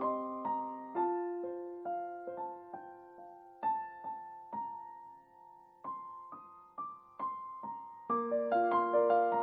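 Background music: a slow, gentle piano melody of single struck notes that ring and fade, thinning out in the middle and becoming fuller chords near the end.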